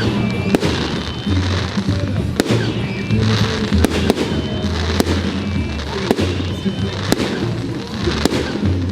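Fireworks display: a run of sharp bangs and cracks from aerial fireworks going off about every half second to a second, over music with a steady low bass line.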